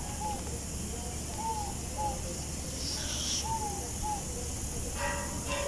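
A bird calling over and over in short, arched, paired notes, over a steady low background rumble.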